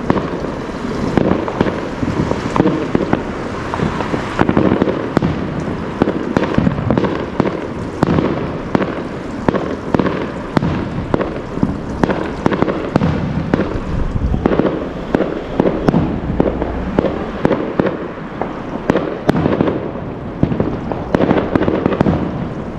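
Fireworks going off in a dense, continuous barrage of sharp bangs and crackles, several a second, over a steady rumble.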